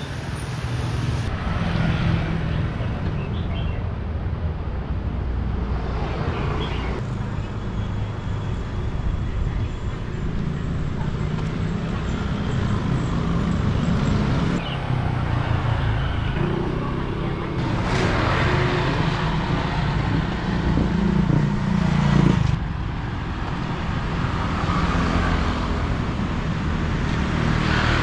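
Street traffic: motor vehicle engines running and passing close by, with the sound changing abruptly several times.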